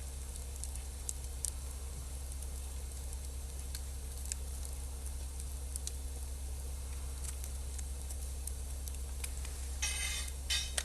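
Wood campfire crackling with sparse, irregular small pops over a steady low rumble, with a brief louder hissing burst near the end.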